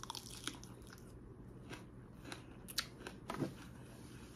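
A person chewing a mouthful of leafy salad with raw bell pepper and red onion: soft wet crunching with scattered small clicks and crackles, a few louder ones in the second half.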